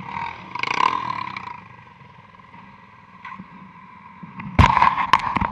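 Honda Transalp V-twin motorcycle running, with a louder burst about a second in, then a run of loud sharp knocks and bumps in the last second.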